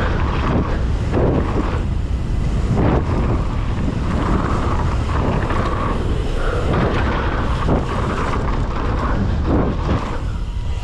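Wind buffeting the microphone as a mountain bike rides fast down a dirt jump line, with tyre rumble on the dirt and repeated short knocks from take-offs and landings.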